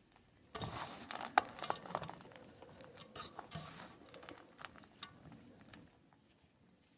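Gym chalk ball being crushed and crumbled: a burst of crunching about half a second in with one sharp snap, then scattered crackles that thin out over a few seconds.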